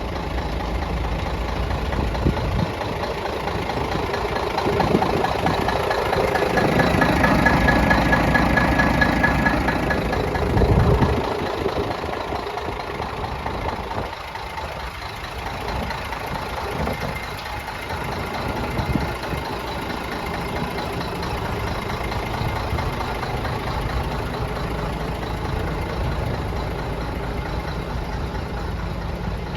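Scania P124-360 truck's straight-six diesel idling, rising louder with a thin high whine from about five to eleven seconds in, then settling back to a steady idle.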